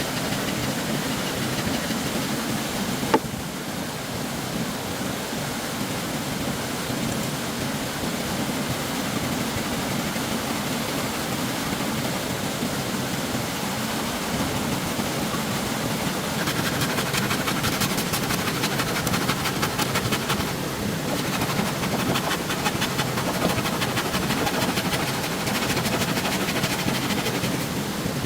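Stream water rushing steadily, with a sharp click about three seconds in. A rapid, high ticking joins the water sound a little past halfway.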